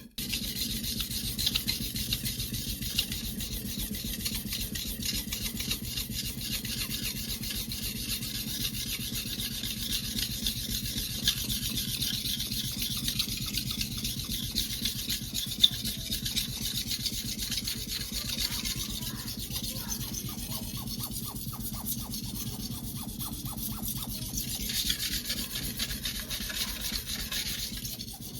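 Global kitchen knife's steel blade being hand-sharpened on a whetstone: continuous rapid back-and-forth rubbing strokes with a gritty hiss, lighter for a few seconds in the middle of the second half.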